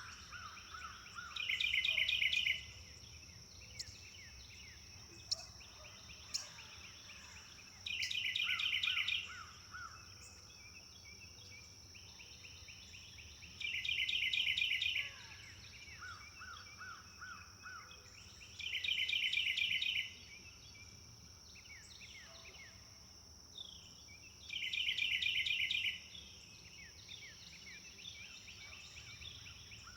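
Songbirds singing: one bird repeats a loud, rapid trilled phrase about every five to six seconds, each introduced by a softer, lower series of notes, with scattered chirps between. A steady high-pitched hum runs underneath.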